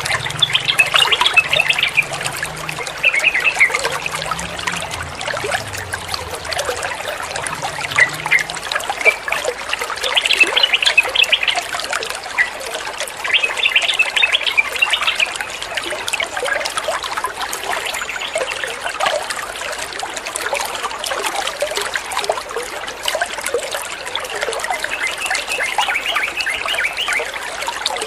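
Flowing water trickling steadily, with several short bursts of yellow-vented bulbul (trucukan) song, bubbly chattering phrases, every few seconds.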